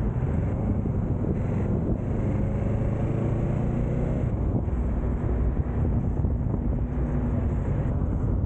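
Kawasaki Z650's parallel-twin engine running under way, its pitch rising slightly around the middle, with wind buffeting the microphone.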